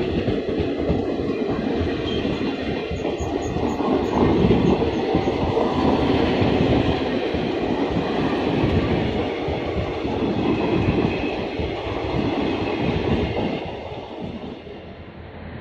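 A long Indian Railways express train's coaches running past on the platform line, the wheels loud on the rails, then dying away near the end as the train clears.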